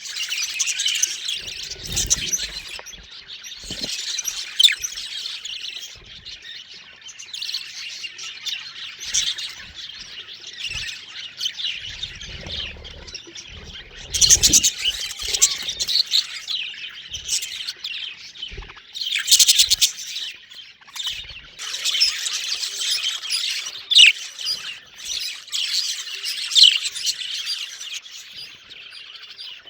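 A flock of budgies chirping and chattering continuously, with occasional low thumps from the cage.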